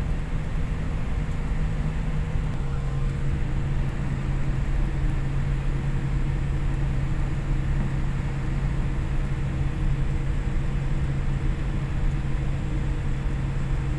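Steady cabin noise inside a Boeing airliner on the ground before take-off: a constant rushing hum under a deep drone whose pitch drops slightly about two and a half seconds in.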